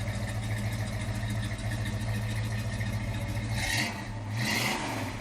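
Dodge Charger engine idling with a steady low rumble, then revved in two short blips near the end.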